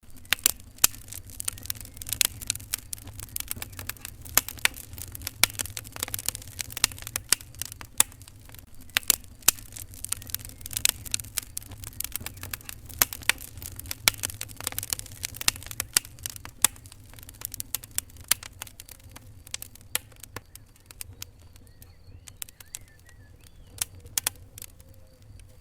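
Wood fire crackling in a fireplace: sharp pops and snaps, several a second at first and sparser for the last third, over a low steady rumble.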